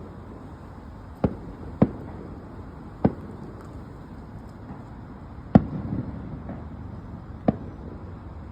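Fireworks shells bursting: about six sharp, separate bangs at uneven intervals over a steady background hum, the loudest about five and a half seconds in, followed by a short rumble.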